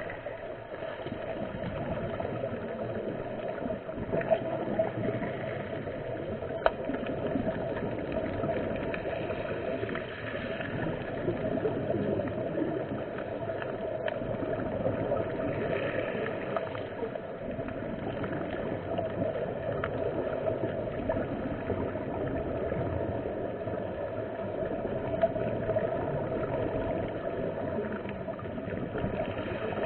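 Steady, muffled water noise, dense and low, with a few faint clicks.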